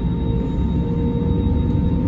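Airbus A320neo engines heard from inside the cabin: a steady drone with a whining tone drifting slowly upward in pitch over a low rumble.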